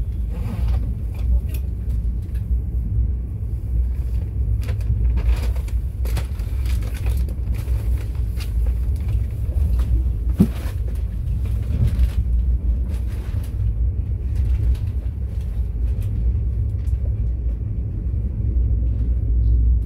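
Mugunghwa-ho passenger train running on the rails: a steady low rumble with scattered clicks and knocks from the wheels on the track, and one sharper click about halfway through.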